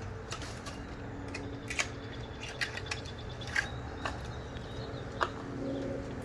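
A few light, scattered clicks and taps of a new spark plug and hand tools being handled, over a steady low hum.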